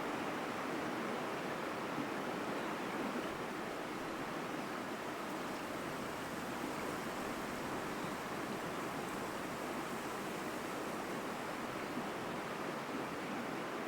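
Mountain stream rushing strongly over rocks: a steady, full rush of water with no change.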